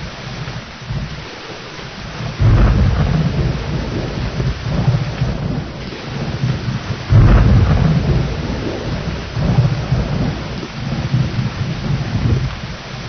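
Steady heavy rain with rolling thunder. Two low rumbles start suddenly, about two and a half and seven seconds in, each rolling on for several seconds over the rain.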